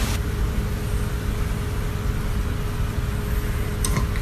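A steady machine hum with a faint steady tone in it, and a few light clicks near the end.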